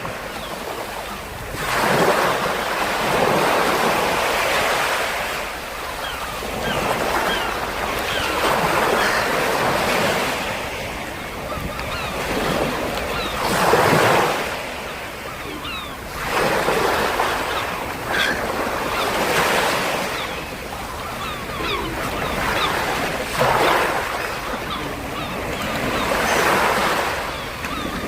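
Baltic Sea waves breaking and washing on the shore, swelling and fading every few seconds, with some wind.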